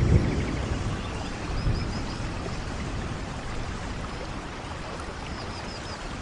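Steady rain, with a low rumble of thunder swelling at the start and again about a second and a half in. Twice there is a faint run of four short, high chirps.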